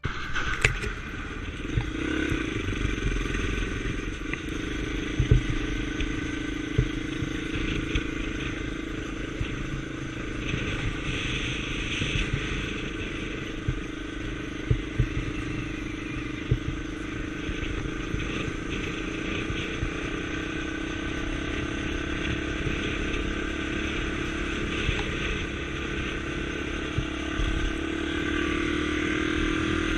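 Honda Tornado scrambler's single-cylinder engine running steadily under way, with road noise and occasional sharp knocks; the engine pitch rises near the end as it speeds up.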